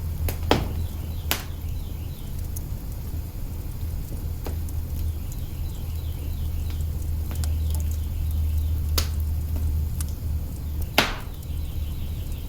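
Wood fire crackling in an open hearth: a steady low rumble with scattered sharp pops, the loudest near the start and about eleven seconds in.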